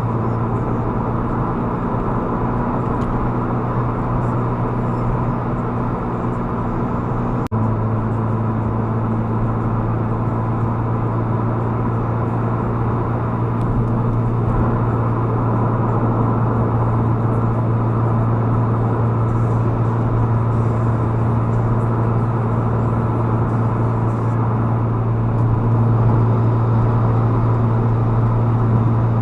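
Steady drone of a moving vehicle's engine and road noise as picked up by a dashcam, a low hum with a steady hiss over it. About seven and a half seconds in there is a brief click and drop, after which the low hum is louder.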